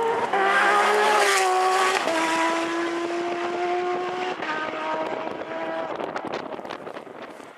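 Porsche rally car's flat-six engine at full throttle passing close by, loudest about a second in along with tyre noise, its pitch dropping as it goes past. It then pulls away with a steadily rising note, changes gear near the middle and fades into the distance.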